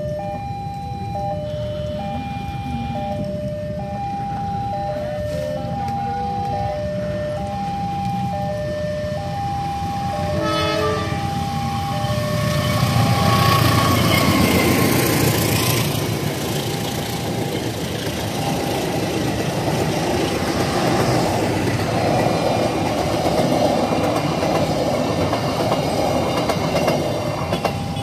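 A level-crossing warning alarm sounds a steady alternating two-note chime, a short train horn blast comes about ten seconds in, then a KAI diesel locomotive hauling a long passenger train passes at speed, its engine rumble peaking and the wheels clattering over the rails as the coaches run by.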